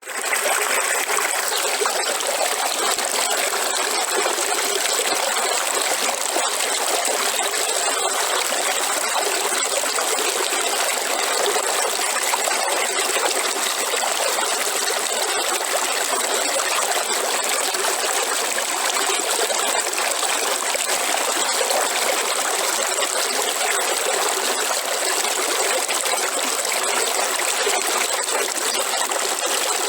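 River water flowing and trickling steadily, an even rushing with no pauses.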